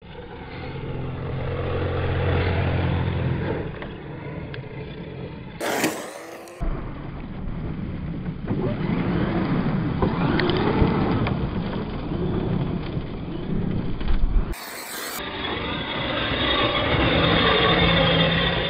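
Arrma Mojave brushless RC short course trucks driving hard, their electric motors revving up and down with tyre and dirt noise, in several short clips joined by abrupt cuts.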